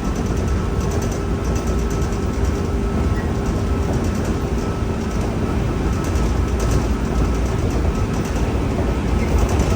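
Running noise heard inside the motor car of a 103 series electric commuter train: a steady, dense rumble with a faint, even hum over it and a higher flickering hiss, the train moving at a constant speed.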